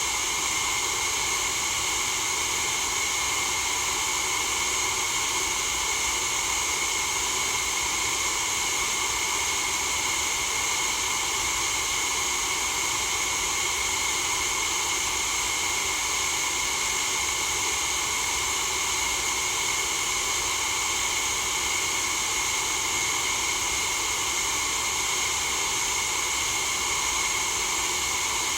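A steady white-noise track for sleep: an even, unchanging hiss with no breaks.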